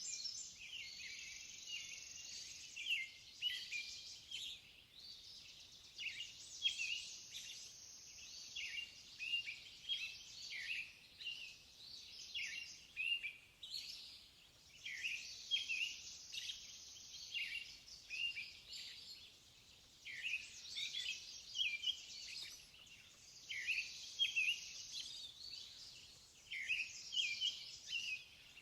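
Birdsong: many small birds chirping and trilling in a continuous chorus of short, high notes.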